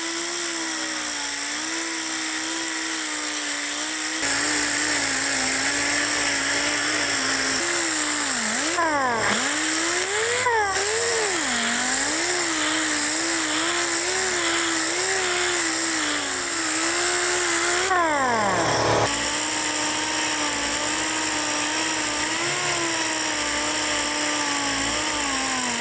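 Handheld power tool spinning a Norton Roll-Lock sanding disc against a steel axe head. The motor whine wavers in pitch as the disc loads up, and three times, about 9, 10 and 19 seconds in, it dips and runs back up.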